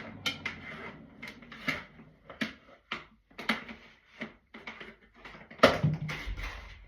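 A run of irregular sharp clicks and knocks, about two a second, with one louder knock near the end: objects being handled.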